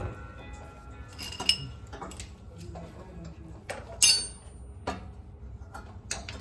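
Metal hand tools and parts clinking against each other during a transmission removal: a few separate sharp metallic clinks that ring briefly, the loudest about four seconds in.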